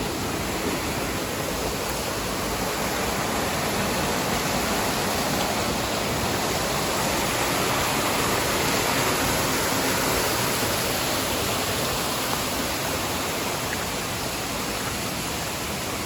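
Waterfall crashing onto rocks close by: a steady, loud rush of falling water that swells slightly midway.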